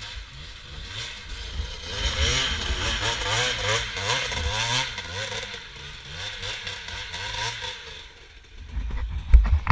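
Trail motorcycle engine revving up and down over and over, with a low rumble beneath. Several loud knocks and thumps come near the end.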